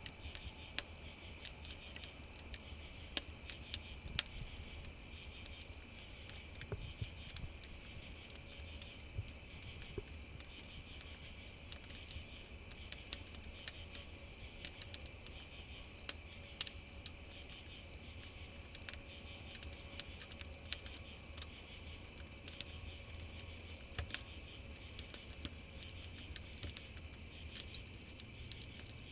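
Crickets chirping steadily in a continuous high chorus while a wood campfire crackles with irregular sharp pops, a few of them louder than the rest.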